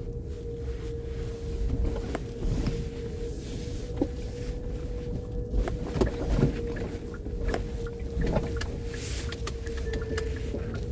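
Road and engine noise inside a moving car: a steady low rumble with a faint steady hum and a few short knocks and rattles scattered through it.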